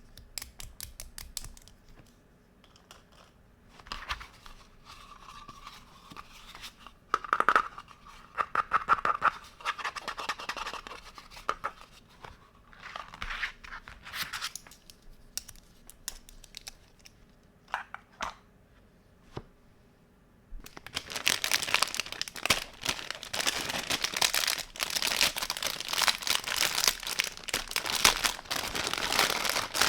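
Packaging being crinkled and torn while toy kitchen pieces are unwrapped. It starts as scattered clicks and short rustles, then turns into continuous crinkling about two-thirds of the way through.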